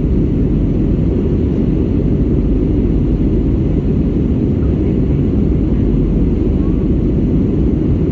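Airliner cabin noise in flight: a steady low roar of the engines and airflow, heard from inside the passenger cabin.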